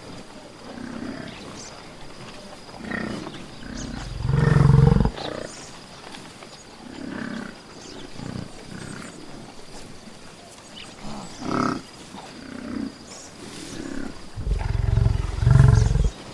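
Buffalo bellowing and grunting: a series of calls, with one long, loud, deep bellow about four seconds in and a longer one near the end, and shorter, fainter grunts between them.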